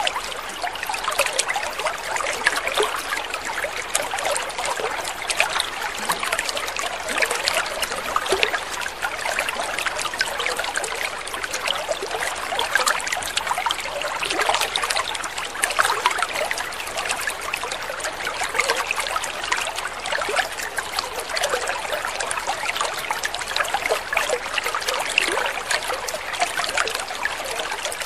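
Water trickling and splashing steadily, a continuous patter of small droplets without pause.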